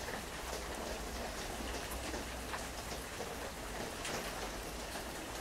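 Steady rain falling, with scattered louder drops, laid in as a rain sound effect.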